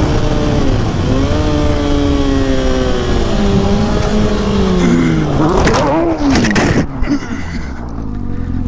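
Motorcycle engine running at speed over wind rush, its pitch sliding down as it slows. About five seconds in come a few sharp knocks and a wavering, uneven engine note.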